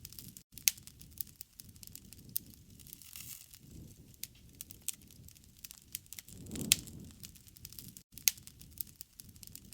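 Wood campfire crackling, with frequent sharp snaps and pops over a low rumble of flames that swells now and then, the biggest swell and loudest pop about two-thirds of the way in.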